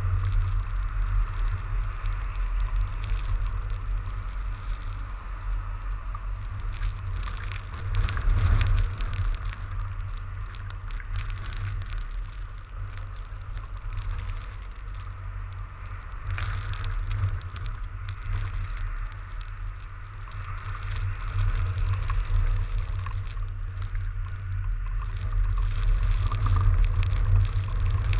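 Riding a fat bike through snow: wind rumbling on the microphone over the hiss of the wide tyres on snow, with scattered light clicks and rattles, and a faint thin high whine from about halfway in.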